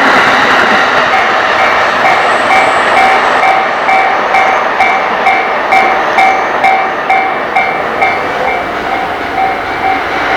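Electric train passing a Japanese level crossing with a loud steady rumble of wheels on rail, while the crossing's electronic warning bell rings about twice a second.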